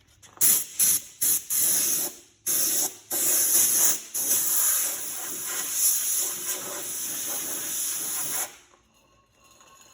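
Compressed-air blow gun blowing off a tractor part: a few short hissing blasts, then longer blasts with brief breaks. The air cuts off about eight and a half seconds in.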